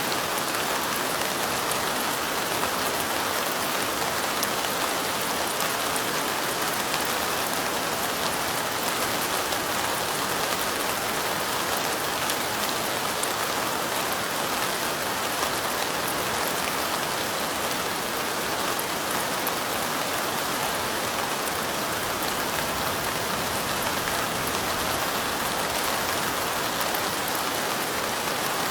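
Steady light rain falling: an even hiss of many small drops pattering.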